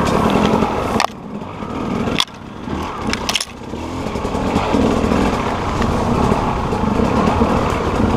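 Enduro dirt bike's engine riding a rough forest trail, the throttle chopping off sharply with a knock about one, two and three seconds in, then pulling steadily.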